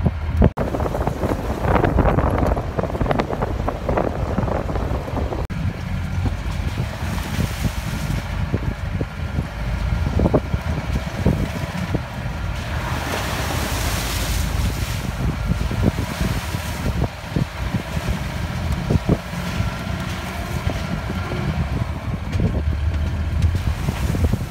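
Mahindra Roxor's diesel engine running steadily under way on a rough gravel trail, with frequent knocks and rattles from the bumpy ride. Wind buffets the microphone throughout, gusting hardest a little past the middle.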